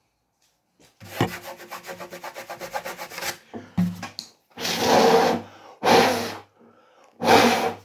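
Sandpaper rubbed by hand around the inside edge of a freshly drilled sound-port hole in a solid-wood acoustic guitar, smoothing off the rough edges. A fast run of short scraping strokes lasts a couple of seconds, then three longer, louder strokes follow.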